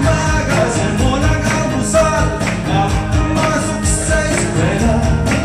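Band music with singing over a steady, regular drum beat.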